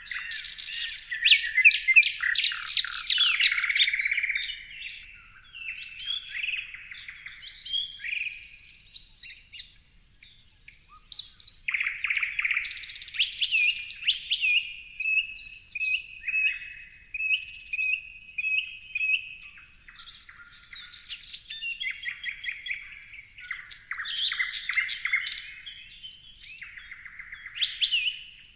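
Several songbirds chirping and singing over one another: quick trills, short repeated whistled notes and rising chirps, with no lull.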